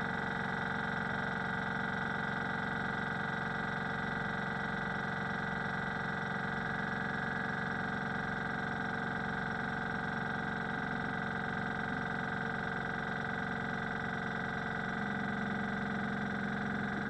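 Hitachi EC1443H high-pressure air compressor running steadily under test, its motor and pump giving a constant hum with a high whine.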